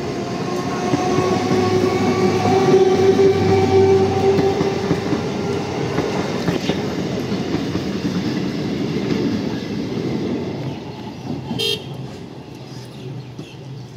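Coaches of an EMU electric local train running past at speed over a level crossing: a steady rumble and rattle of wheels on rail that fades about ten seconds in as the last coaches pass. A long horn note sounds over it for the first five seconds, and there is a sharp clack near the end.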